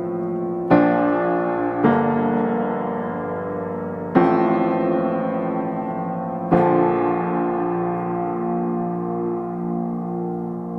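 Slow, calm piano music: soft chords struck four times, each left to ring and fade.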